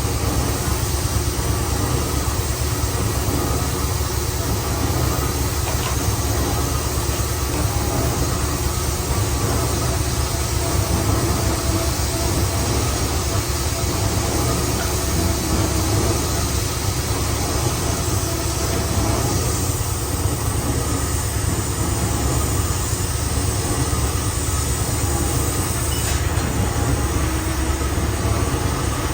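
Heavy boring machine running steadily while machining a steel pipe: a continuous low rumble with an even grinding noise above it.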